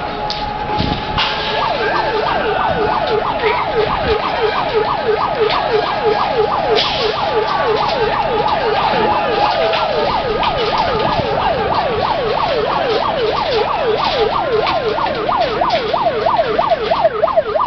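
Emergency evacuation siren sounding a fast, repeating rise-and-fall yelp, the alarm that calls workers off the site in a mock drill. Near the end a second sweep overlaps it, and scattered knocks sound underneath.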